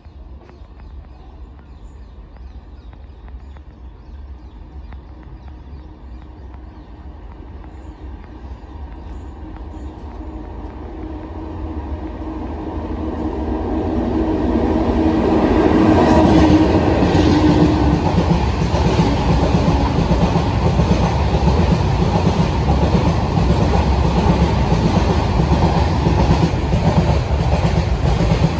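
Freight train approaching and passing close by. A low rumble grows steadily louder for about fifteen seconds, and a humming tone peaks as it reaches full loudness. The wagons then roll past with a steady clickety-clack of wheels on the rails.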